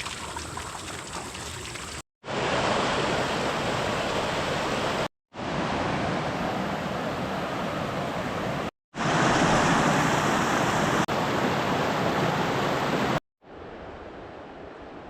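Steady rushing of a mountain stream, heard in several short clips that each cut off abruptly; the last clip is much quieter.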